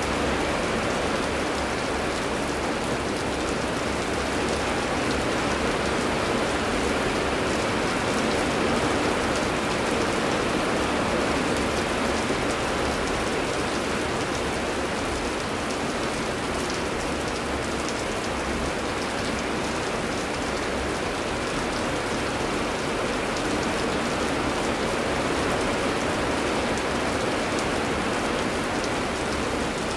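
Heavy rain falling steadily: an even hiss flecked with many small drop impacts.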